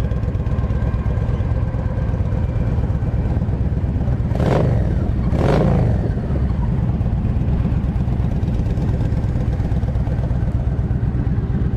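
2007 Yamaha V Star 1300's liquid-cooled 1300cc V-twin idling with a nice little thump, swelling twice briefly near the middle as the throttle is blipped. It runs smoothly, with no rattling or engine noise.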